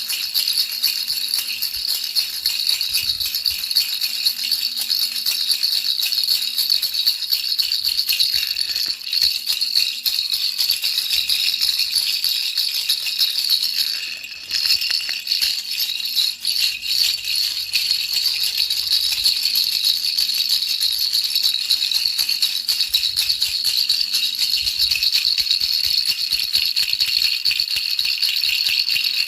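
A baby's rattle shaken continuously: a dense, fast, high rattling of small beads, used as a steady white noise. It pauses briefly about fourteen seconds in.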